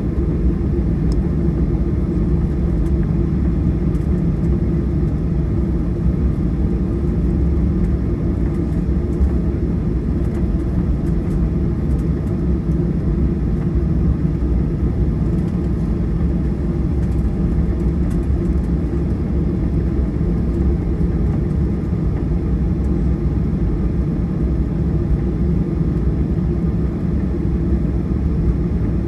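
Boeing 737-800's CFM56 engines running steadily, heard from inside the cabin near the rear: an even low rumble that holds the same level and pitch throughout.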